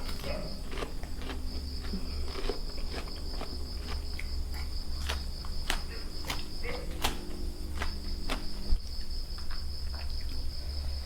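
Crickets chirring in a steady high trill over a low hum, with irregular sharp crunches and clicks from chewing food.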